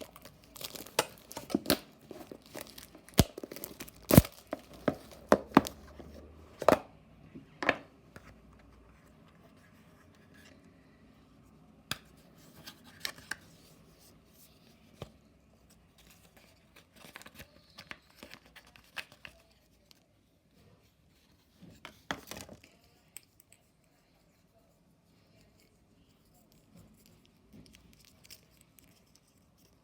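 Packaging of Google Pixel USB-C earbuds being opened and handled: tearing and crinkling with sharp snaps and clicks, busiest in the first eight seconds, then only occasional handling sounds and a short flurry about two-thirds of the way through.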